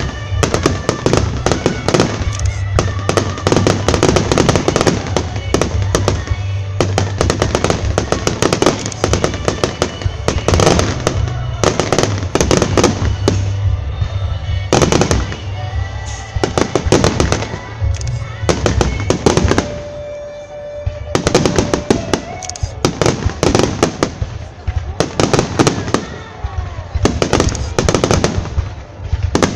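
Aerial firework shells and ground fountains going off at close range in a dense barrage: a rapid, unbroken run of bangs and crackles that thins briefly about two-thirds of the way through, then builds again.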